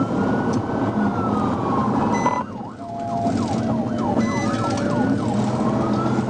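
Police car siren switching between a slow rising-and-falling wail and a rapid yelp, with road noise underneath; the sound drops out briefly about two and a half seconds in.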